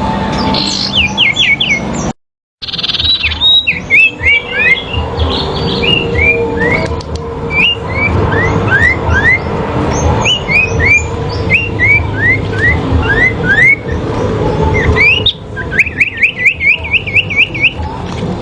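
Sirpu songbirds singing against each other in a song duel: a long string of short, clear, downward-slurred whistles, then a fast run of repeated rising notes near the end. The sound cuts out completely for a moment about two seconds in.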